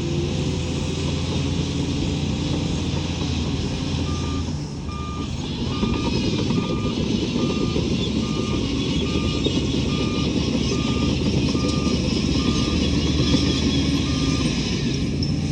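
Heavy earthmoving machine's diesel engine running under load while its reversing alarm beeps steadily, a little more than once a second. The beeping starts about four seconds in and stops near the end.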